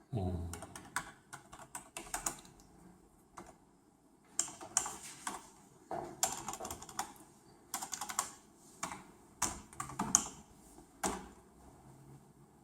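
Typing on a computer keyboard: runs of quick key clicks with short pauses between them, as when entering a search.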